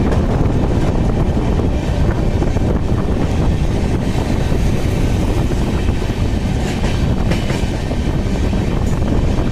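Passenger train coaches running along the track, heard from on board: a loud, steady rumble of wheels on rails with a few faint clicks over the rail joints.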